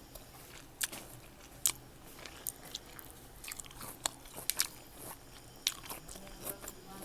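Close-up chewing of crisp fresh fruit: irregular sharp crunches, a few seconds apart and sometimes in quick pairs.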